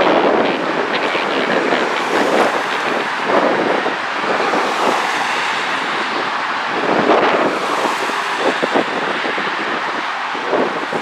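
Jet engine noise from an Airbus A380 climbing away after takeoff, a rough steady rumble, mixed with wind buffeting the microphone.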